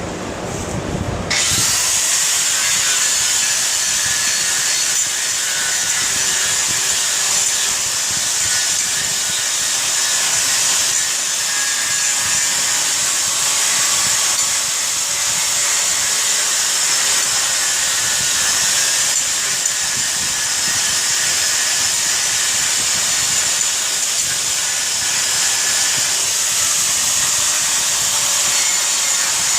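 Handheld power tool cleaning up bare spots on a steel truck frame: a steady, harsh hiss that starts about a second in and runs on without a pause.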